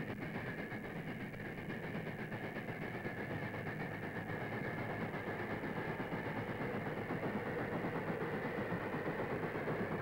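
Ffestiniog Railway narrow-gauge train running past, a steady rumble of coaches on the track that slowly gets louder.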